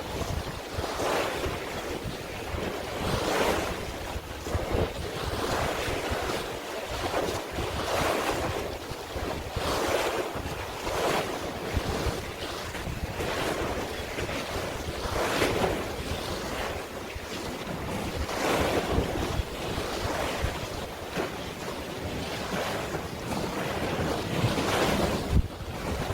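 Sea waves washing in surges every second or two, with wind buffeting the microphone as a low rumble underneath.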